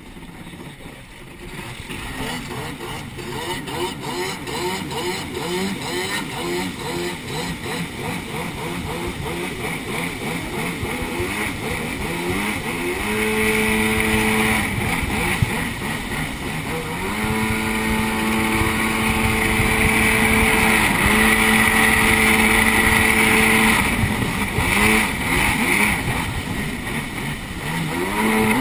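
Jet ski engine accelerating unevenly, then running at steady high revs with brief throttle drops a few times, over a loud hiss of rushing water and spray.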